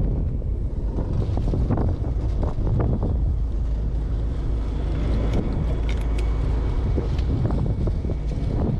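Fishing boat's engine running steadily as a low rumble under wind noise on the microphone, with scattered light clicks and knocks.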